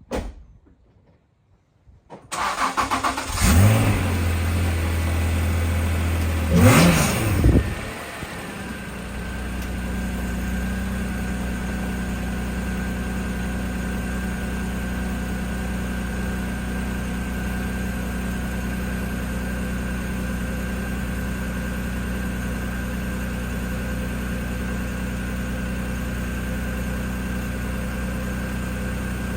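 Honda NSX V6 cold start: the engine cranks and catches about two seconds in, runs at a raised idle, is blipped once up and back down, then settles into a steady idle.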